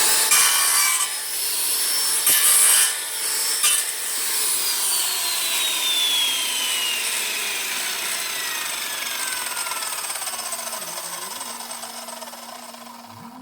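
Corded circular saw running at full speed, its blade scraping against a wooden board in three loud bursts without cutting in. The motor is then switched off and coasts down, its whine falling steadily in pitch and fading over about nine seconds.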